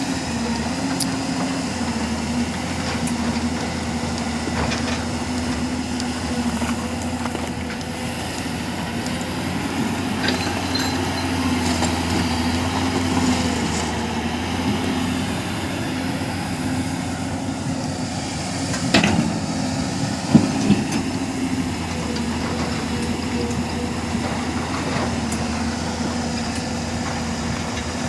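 Excavator's diesel engine running steadily, with a few sharp knocks about two-thirds of the way through.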